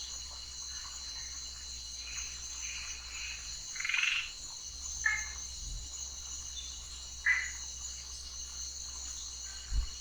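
Night chorus of frogs and insects: a steady high-pitched trill with separate louder frog calls about four, five and seven seconds in, and a low thump near the end.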